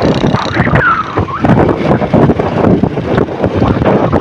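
Wind buffeting the microphone of a moving vehicle, with a rushing road noise and rapid gusty thumps throughout, and a brief gliding tone about a second in.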